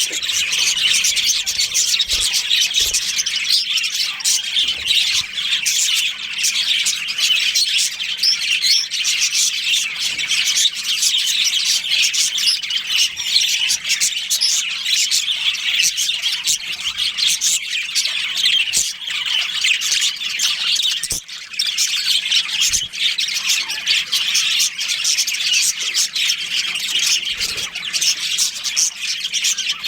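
A colony of budgerigars chattering and chirping continuously, many calls overlapping.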